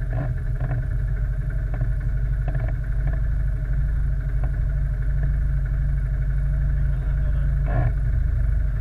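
ATV (quad bike) engine running steadily, a continuous low rumble with no clear change in speed.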